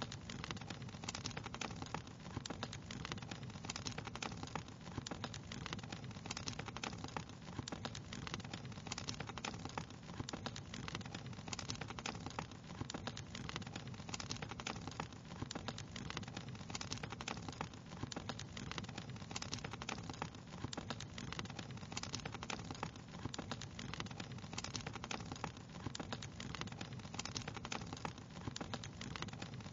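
Wood fire crackling steadily, with dense irregular pops and snaps over a low steady rumble.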